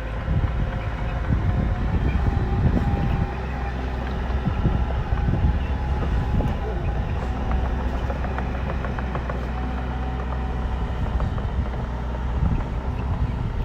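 Bulldozer's diesel engine running steadily under load, with scattered knocks and clanks throughout.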